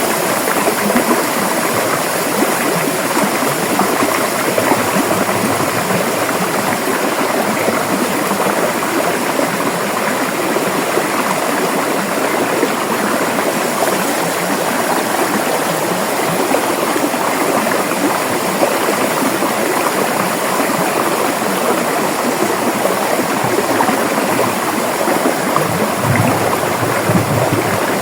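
River water flowing and rushing over rocks, a steady dense rush with a constant burbling texture.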